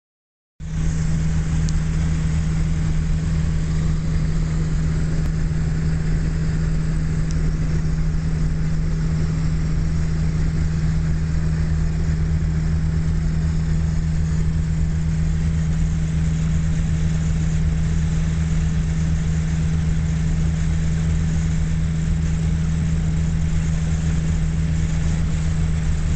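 The V8 of a 1957 Chrysler Windsor running at a steady cruising speed, a constant low hum heard from inside the cabin. It starts about half a second in and holds steady with no change in revs.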